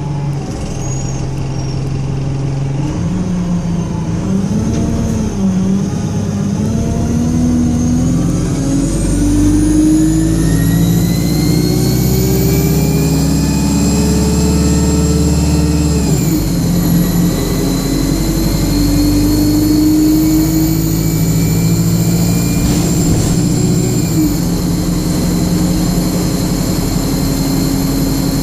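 Alexander Dennis Enviro 200 bus accelerating, its engine climbing in pitch with a high screaming whine rising alongside. About halfway through, the pitch drops suddenly at a gear change, then the engine holds fairly steady with a slight dip near the end.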